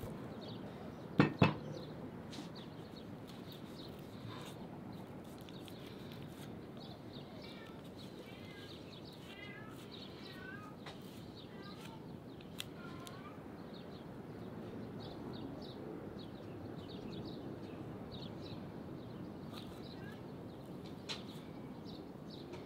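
Birds chirping in scattered short runs over a steady outdoor hiss, with two sharp knocks about a second in.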